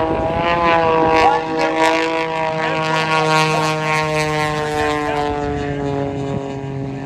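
Aerobatic single-engine propeller plane passing low and slow overhead, with a steady engine-and-propeller drone whose pitch sinks slightly as it goes by and fades a little near the end.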